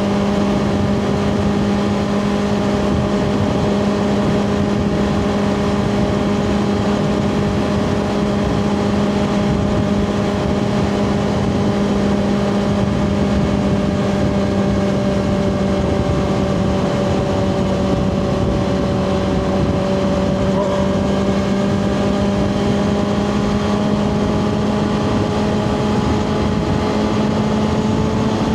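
2024 Kawasaki ZX6R's inline-four engine through a Two Brothers slip-on exhaust, held at steady revs while riding, over a rush of wind and road noise. The pitch sags slightly about twenty seconds in and climbs a little near the end.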